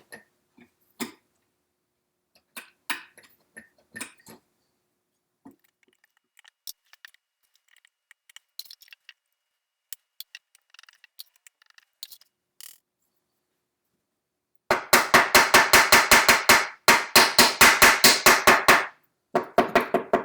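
Scattered small clicks and snaps of needle-nose pliers twisting framing staples out of a wooden chair frame. About fifteen seconds in, a hammer taps fast and evenly in two runs with a short break between, driving the leftover staple ends flush into the wood.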